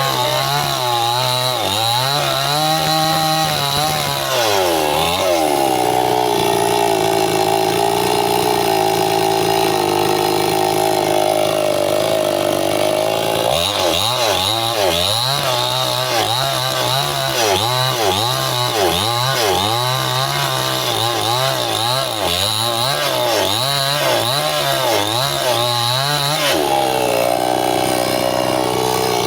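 Stihl chainsaw cutting through bendo wood, its engine running under load. The pitch dips and recovers as the chain bites, holds steadier for a spell, then wavers up and down about once a second through the later cuts.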